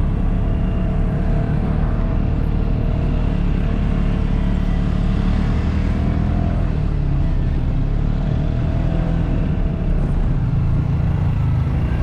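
Side-by-side UTV engine and drivetrain running under way on a trail: a steady low rumble whose pitch drifts slightly up and down.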